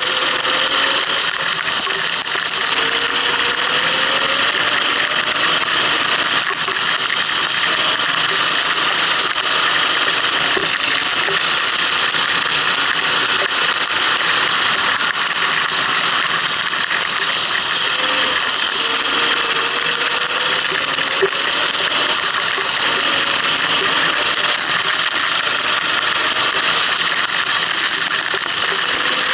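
Go-kart engine running on track, its pitch rising several times as the kart accelerates, under a steady loud hiss.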